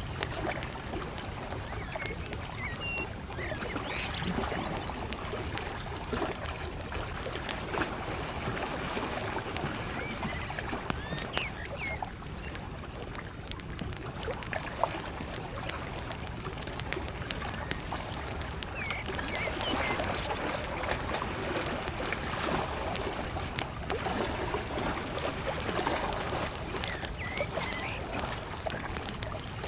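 Campfire crackling with many sharp little pops, over the steady wash of small lake waves lapping. A few short bird chirps sound now and then.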